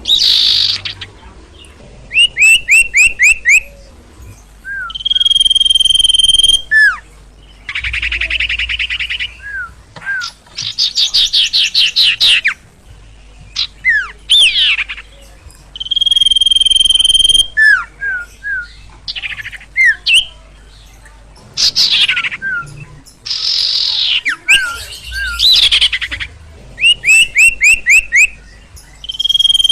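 Sirtu bird song, loud and busy. It mixes held whistles about a second long, quick falling chirps, fast trills and buzzy rattles, in bursts of a second or two with short gaps between them.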